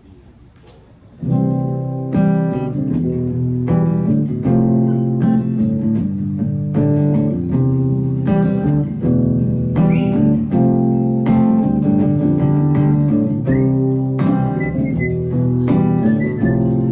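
A live song opening on strummed guitar chords, starting about a second in and going on in a steady rhythm.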